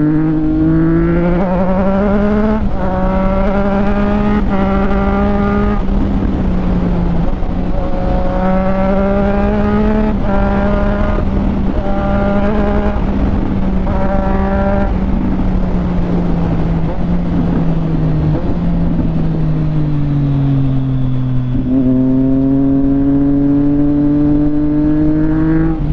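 Triumph Street Triple 765 RS's three-cylinder engine, revs climbing in pitch several times in quick succession with each climb cut short. The revs then fall away for several seconds and climb again near the end.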